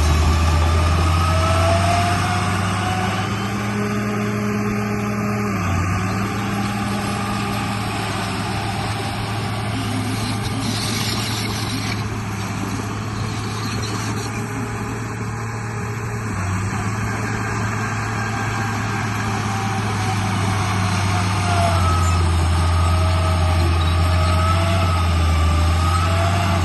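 RC bulldozer running, with a steady low engine drone that shifts pitch a few times and a thinner motor whine that rises and falls.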